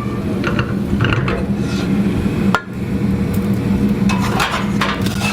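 Kitchen handling noise as arepas are moved into a metal stovetop oven box: light scraping and clatter over a steady low hum, with one sharp knock about two and a half seconds in.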